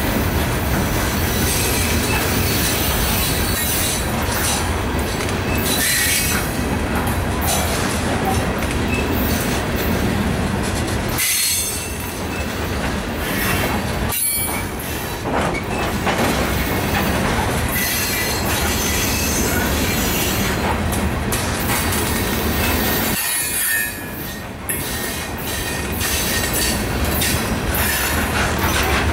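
Cars of a loaded coal train rolling past close by: a loud, steady noise of steel wheels on the rails, dipping briefly twice.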